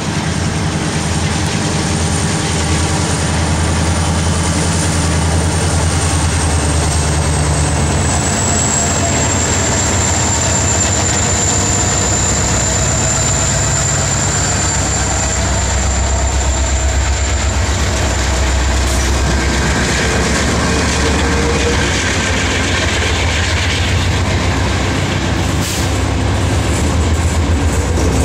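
Freight train passing close by: CN diesel-electric locomotives run by with a deep engine rumble, then the freight cars roll past with steady wheel-on-rail noise. A steady high whine holds throughout and dips slightly in pitch after about eight seconds, and some squealing tones come in about two-thirds of the way through.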